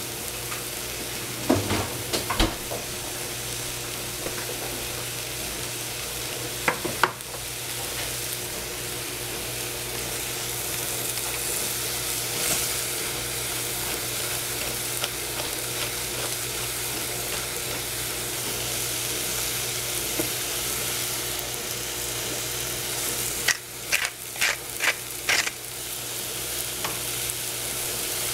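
Sliced shiitake mushrooms sizzling in a stainless steel saucepan, a steady hiss, while being stirred with a wooden spatula. There are a few sharp knocks early on and a quick run of them near the end.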